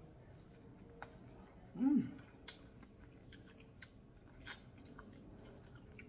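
Close-up chewing of corn on the cob, with scattered sharp wet mouth clicks, and a short hummed "mm" about two seconds in.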